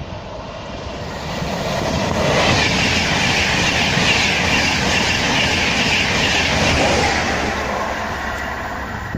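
A train passing on the track: the rush of wheels and rails builds over about two seconds, holds loud for about five, then fades.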